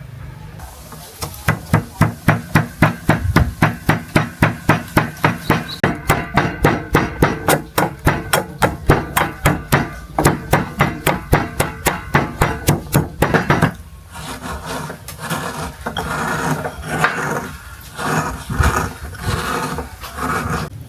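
Knife or cleaver chopping on a wooden cutting board: a long run of steady, evenly spaced strokes, about three a second, then a quieter, irregular stretch of lighter knocks and scraping.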